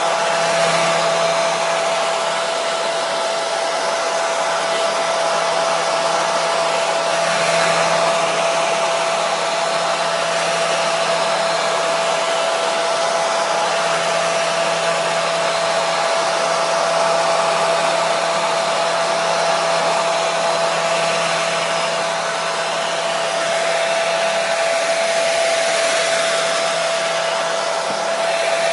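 Hair dryer running steadily: a continuous rush of air with a steady motor whine, never changing in level.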